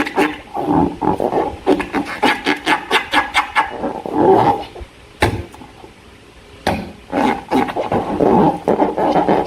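Slime being squeezed and kneaded by hand, a run of sticky clicks and pops about four a second, then a brief quieter pause past the middle before denser crackling squelches near the end.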